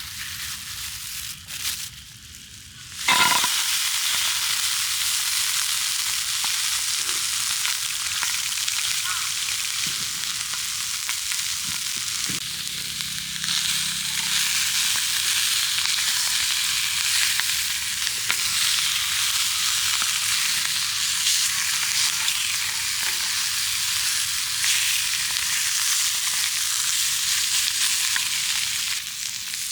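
Food sizzling in a hot iron frying-pan dish. About three seconds in it starts suddenly and loudly, as the food goes into the pan, then runs as a steady, dense sizzle.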